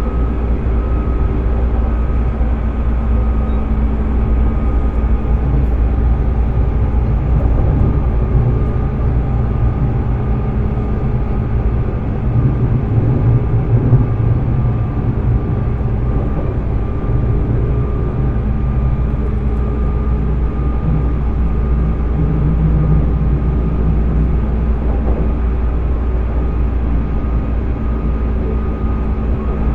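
JR East 205 series electric train motor car with MT61 externally ventilated traction motors running at a steady speed, heard from inside the car: continuous wheel and motor rumble with steady motor and gear tones that hold their pitch. The rumble swells briefly around the middle.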